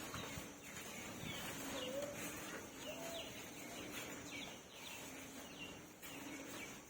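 Birds chirping: a run of many short, falling chirps, fairly faint, with a couple of soft lower calls about two and three seconds in.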